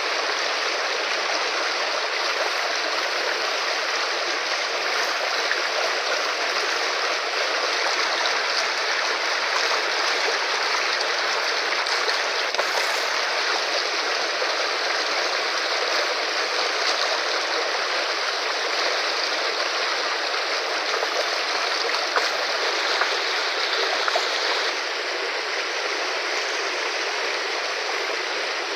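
Fast-flowing river rushing steadily: a continuous, even roar of moving water.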